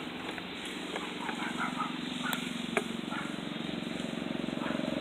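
An engine running steadily, a low even hum that grows slightly louder near the end, with a few faint clicks over it.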